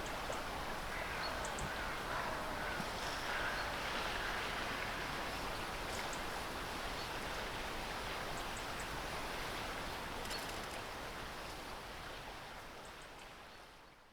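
Outdoor mountain ambience: a steady rush of wind or running water with a few faint, brief high chirps, fading out over the last two seconds.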